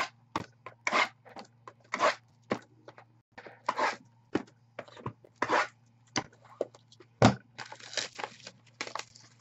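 Card-box and wrapper packaging being torn and scraped open: a quick, irregular run of short tearing and rustling strokes, over a faint steady hum.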